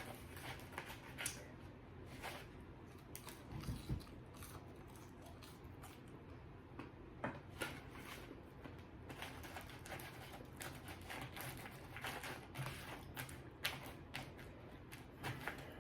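Faint, scattered clicks and crackles of eating and handling food close by: chewing seasoned fries and a corn dog.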